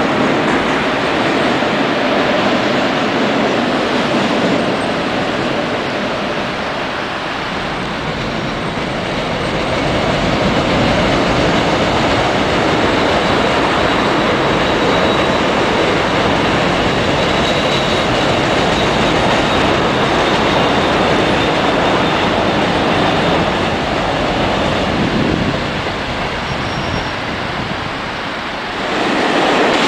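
Passing trains on a railway bridge: the continuous running noise of steel wheels on track, several trains one after another. The noise dips twice and swells again near the end as the next train comes close, and a faint high whine runs through the middle.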